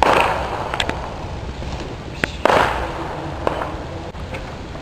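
Fireworks going off: two loud booms, one at the start and one about two and a half seconds in, each trailing off in an echoing rumble, with a few sharp crackling pops between.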